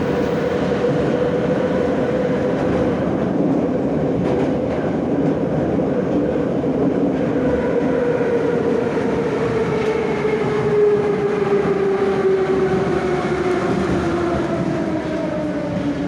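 Moscow Metro 'Nomernoy' (81-717/714) train running in a tunnel: steady rumble of wheels on rail with a motor and gear whine that falls steadily in pitch through the second half, as the train slows for the next station.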